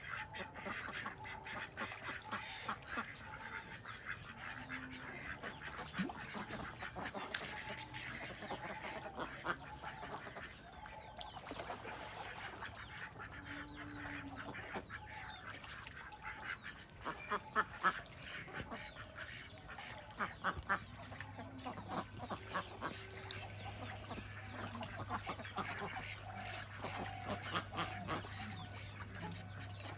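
Birds calling: many short, overlapping calls mixed with scratchy clicks. A low steady hum comes in about two-thirds of the way through.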